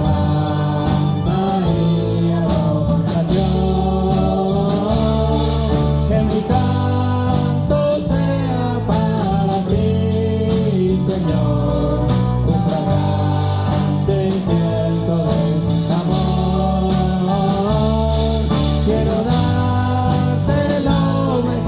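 Live gospel worship music: a band with sustained bass notes, and a singer's voice holding long, wavering notes over it.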